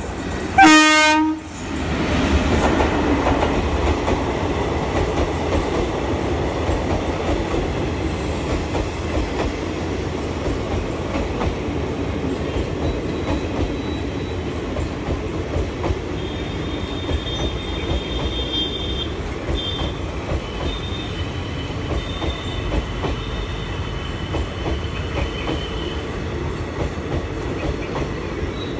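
WAP-4 electric locomotive of an express passenger train sounding its horn once, a loud blast of about a second, as it passes. The train's coaches then roll past at speed with a steady rumble of wheels on the track. Faint high squeals come and go in the second half.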